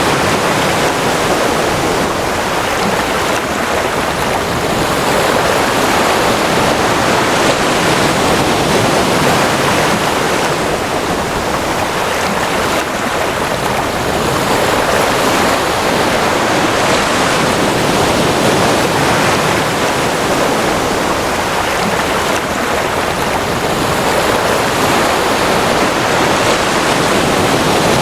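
Ocean waves washing on a shore: a continuous rushing hiss of surf with gentle swells in level.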